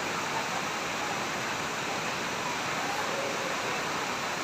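Steady rushing of falling water, typical of a small roadside monsoon waterfall. It is an even hiss with no distinct splashes or rhythm.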